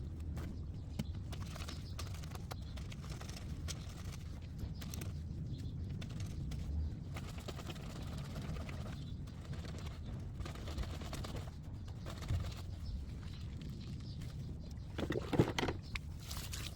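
Wet laundry being scrubbed and handled by hand on a concrete washing station: soft irregular rubbing and small knocks, with a louder cluster of knocks near the end.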